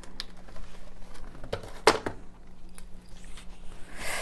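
Small handling noises on a tabletop: scattered soft clicks and two sharper knocks about a second and a half and two seconds in, then a short rustle near the end.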